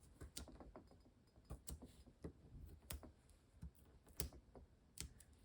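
Faint, irregular small clicks and ticks of the backing being picked and peeled off adhesive foam dimensionals by hand, about a dozen in a few seconds.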